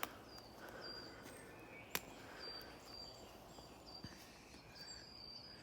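Quiet forest ambience with short, high bird whistles repeating about once a second, and two sharp clicks, one at the start and one about two seconds in.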